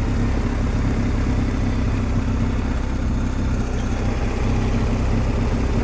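BMW R 1250 GS Adventure's boxer-twin engine running steadily while the motorcycle is ridden at an even pace.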